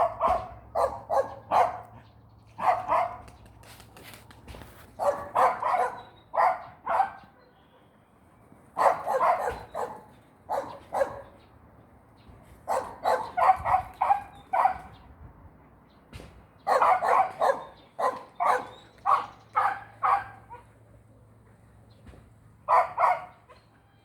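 A dog barking repeatedly, in runs of two to seven quick barks with pauses of a second or two between the runs.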